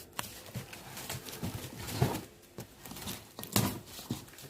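A box being opened and handled: scattered rustling and scraping of packaging, with a couple of sharper taps about two seconds in and again near three and a half seconds.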